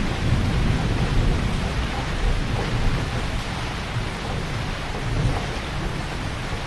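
Heavy rain falling steadily, with a low rumble of thunder that is strongest in the first few seconds and then eases off.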